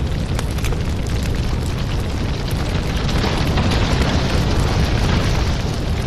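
Fireplace ambience: a steady low rumble of burning fire with scattered small crackles and pops, swelling a little about halfway through.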